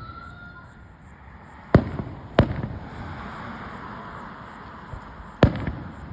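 Fireworks exploding: three sharp booms, two close together about two seconds in and a third near the end, each followed by a rolling echo, with crackling between them.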